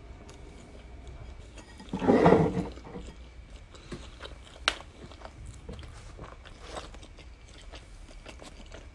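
Close-miked chewing of a mouthful of savory bun with melted cheese: soft, wet mouth clicks and smacks, with one louder, muffled mouth sound about two seconds in.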